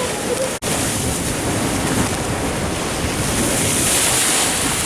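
Wind rushing over the microphone with surf washing in along the shore, a steady noisy rush that cuts out for a split second just after the start and grows hissier past the middle.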